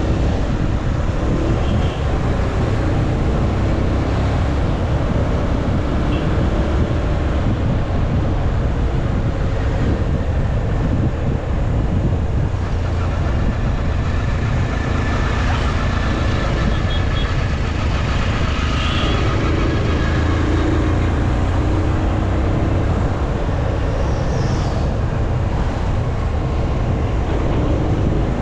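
A motorcycle riding along the road, its engine and tyre noise under a steady heavy rumble of wind on the action camera's microphone.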